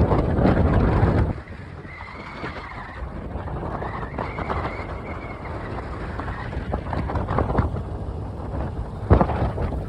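Wind buffeting the microphone during a bike ride, over rumbling road and vehicle noise. The noise is heavy for the first second or so, eases off, then grows strong again near the end, with a faint wavering high whine for a few seconds in the middle.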